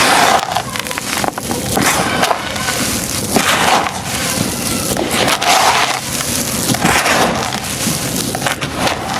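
Dry moulded sand-and-cement shapes crumbling and crunching: a dense crackle of many small clicks, swelling louder every second or two as pieces break.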